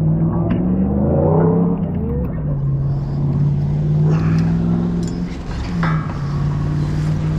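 A machine's engine running steadily with a low hum, its pitch climbing briefly about a second in before settling again. There are a few light metallic knocks.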